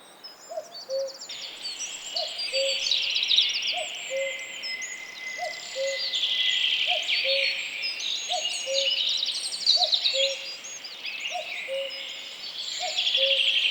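Birdsong chorus: several songbirds singing high trills and whistling phrases over a low two-note call that repeats evenly, a little more than once a second.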